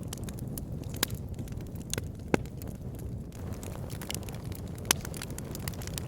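Wood logs burning in a log burner: a steady low rumble of the fire with a handful of sharp crackles and pops, the loudest a little over two seconds in.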